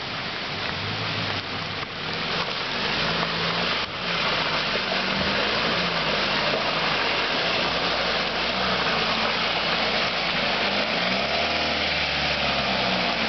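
Off-road vehicle's engine running as it drives along a rough forest track, with a steady rushing noise over it. It gets louder about three seconds in and then holds steady, its note shifting up and down.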